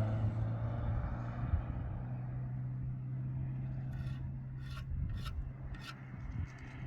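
A steady low engine hum with several short rasping or scraping strokes, four of them between about four and six seconds in.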